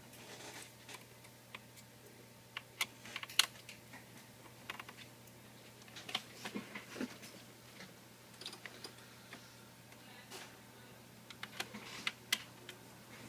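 Irregular light clicks and taps of a screwdriver and small screws being worked out of a laptop's case and frame, over a faint steady hum.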